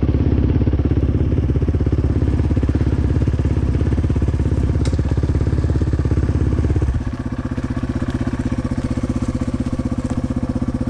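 Dirt bike engine idling steadily, turning quieter and thinner about seven seconds in.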